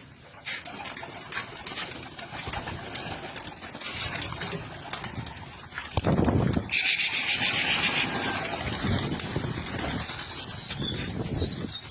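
Domestic pigeons cooing, with a burst of wing flapping lasting about a second, some seven seconds in.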